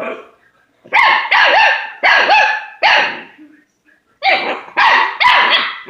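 German short-haired pointer puppy barking at its food dish: a run of four barks, a pause of about a second, then three more.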